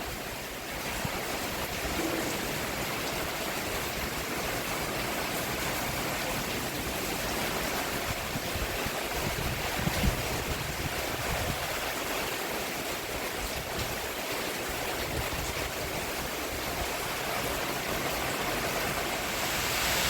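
Steady rain falling on a roof, an even hiss that does not let up.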